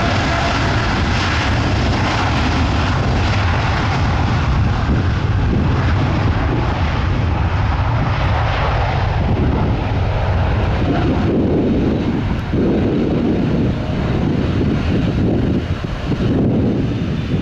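Boeing 787-10 twin-jet airliner's engines rumbling steadily on a takeoff departure. Wind buffets the microphone in gusts through the second half.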